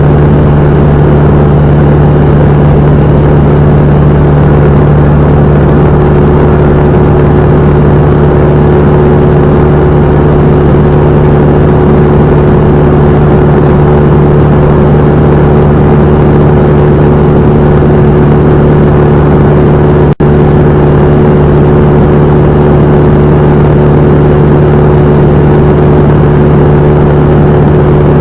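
Cessna 172M's four-cylinder Lycoming engine and propeller drone, loud and steady at an unchanging pitch. The sound drops out for a split second about twenty seconds in.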